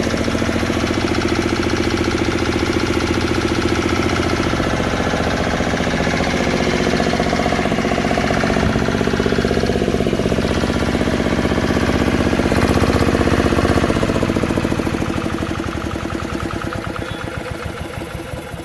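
Field Marshal 5 hp single-cylinder diesel pumpset engine running with a steady fast chug. From about fourteen seconds in it grows quieter and the beats slow and spread apart as it winds down.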